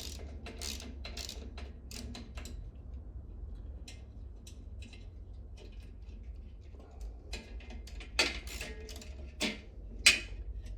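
Small metal clicks and light knocks of hand-work on bicycle brake parts as a brake cable is worked loose, with a few sharper knocks near the end, the loudest just before the end.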